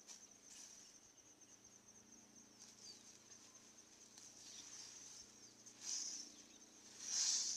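Insects trilling steadily in a high, fast-pulsed chirr, swelling louder twice near the end.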